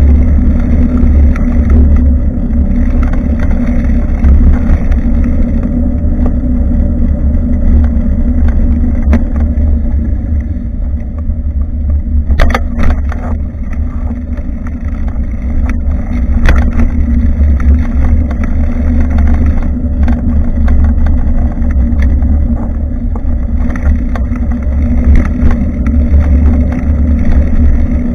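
Heavy low wind rumble on the microphone of a bicycle-mounted action camera during a ride, with a few sharp clicks about halfway through.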